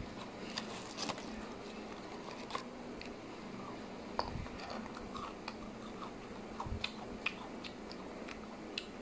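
A child chewing and crunching crisp food, with many small scattered clicks and crackles over a faint steady hum.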